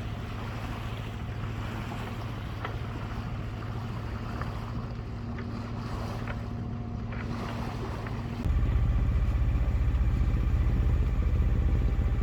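A sailboat's engine running steadily under way, with wind and water noise over it. About eight seconds in, the engine hum suddenly gets louder and deeper.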